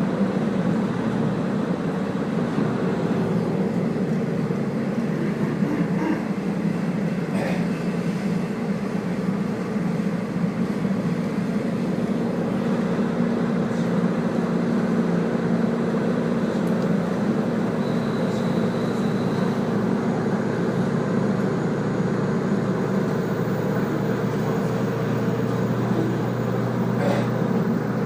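Running noise of the Kazekko diesel railcar heard from inside the carriage: a steady engine drone and wheels rolling on the rails, with a few sharp clicks from rail joints or points.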